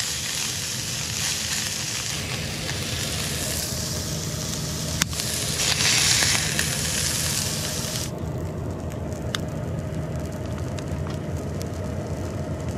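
Burger patty sizzling in a hot frying pan, loudest about six seconds in. The sizzle drops away sharply about eight seconds in, leaving a steady low hum. There is a single sharp click about five seconds in.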